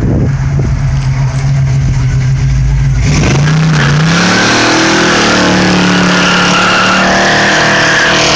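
1984 Oldsmobile Cutlass with a Doug Herbert performance camshaft, its engine rumbling steadily at low speed. About three seconds in it goes to full throttle and the revs rise as the car pulls away, with the tires squealing.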